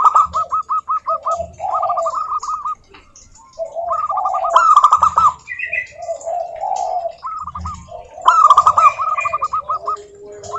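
Zebra doves (perkutut) cooing, several birds overlapping: rapid runs of short, evenly repeated notes over lower rolling coos, in bouts every couple of seconds, with a few higher chirps between.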